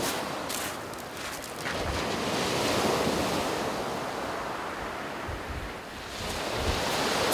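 Sea surf breaking and washing over a shingle beach, swelling about two to three seconds in and again near the end, with wind buffeting the microphone.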